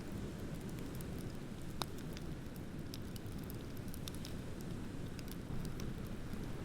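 Beach bonfire crackling: scattered sharp pops and snaps, one louder about two seconds in, over a steady low rush.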